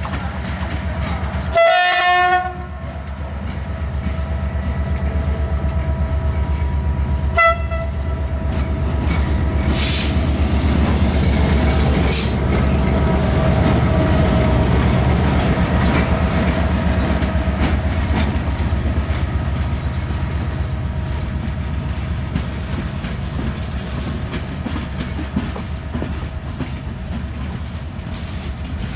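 GM-engined diesel-electric locomotive running with its passenger train, a steady rumble with the clatter of wheels over jointed rails. Its horn sounds one short blast about two seconds in and a brief toot a few seconds later. A loud hiss lasts about two seconds around ten seconds in.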